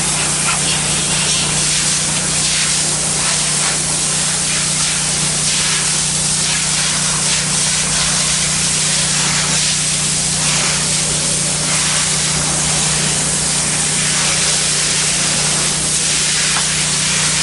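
Pressure washer spraying water through a low-pressure tip onto a ceramic-tile patio: a steady, even hiss of spray over a constant low hum.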